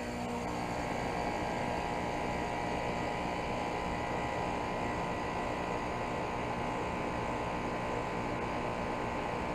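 The outdoor unit of a 2014 Rheem Value Series 3-ton central air conditioner running steadily just after startup: an even hum from the compressor and condenser fan.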